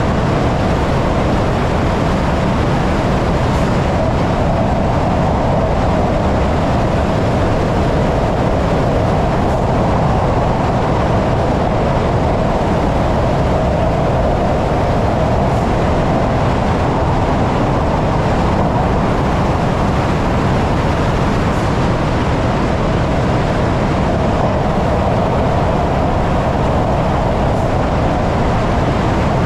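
ÖBB Railjet passenger train running at about 77 km/h through a long rail tunnel. The noise of its wheels and the rush of air is steady and unbroken, and the tunnel walls hold it in as a continuous loud rumble and hum.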